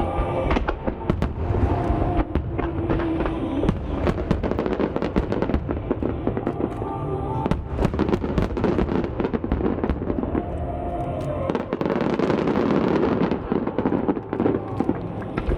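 Large aerial fireworks going off in rapid succession, sharp reports and crackles overlapping in a dense barrage, busiest about halfway through. Music plays underneath.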